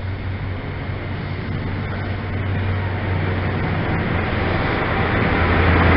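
Diesel train engine running with a low, steady drone that grows gradually louder.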